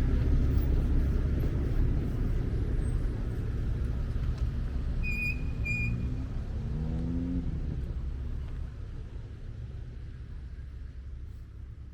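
Street traffic: a steady low rumble and hiss of passing cars that gradually fades down. Two short high beeps come about five seconds in, followed by a brief rising pitched sound.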